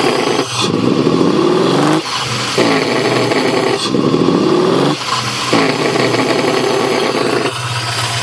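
1995 Toyota 4Runner's 3.0-litre 3VZ-E V6 engine revved up three times, each rev climbing for about a second before dropping back, then settling toward idle near the end. Its throaty sound is exhaust noise coming through the PAIR valve into an aftermarket air intake box that lacks the stock resonator, made worse by two shorted spark plugs on cylinders 3 and 5.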